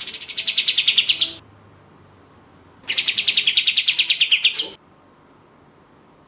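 Kapas tembak songbird giving two rapid rattling trills, each sliding down in pitch and then holding level; the second starts about three seconds in and runs a little longer.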